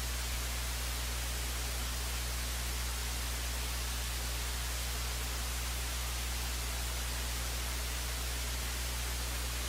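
Steady hiss with a low electrical hum underneath and no programme sound: dead air on the broadcast audio feed during the break.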